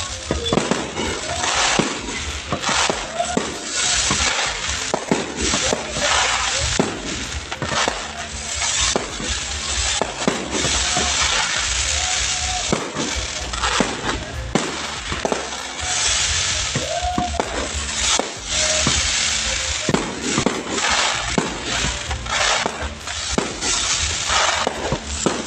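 Fireworks display going off continuously: a dense run of sharp bangs and crackles, with a few short whistling glides.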